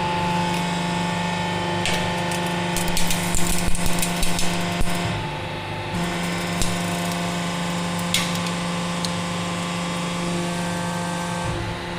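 500-ton hydraulic press running with a steady hum. A cluster of sharp cracks and creaks comes about three to five seconds in as the truck rim gives under the load, and there is a single click about eight seconds in.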